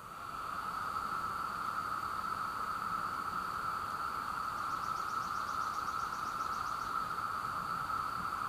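Chorus of 17-year periodical cicadas, a loud, steady, unbroken droning whine that swells up in the first second.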